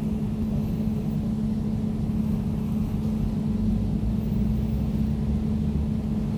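Air conditioner running steadily: a constant low rumble with an even hum.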